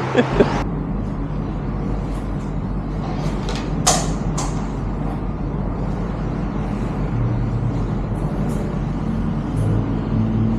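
Steady motor-vehicle engine and traffic noise, a low even hum, with a few sharp clicks, the loudest about four seconds in.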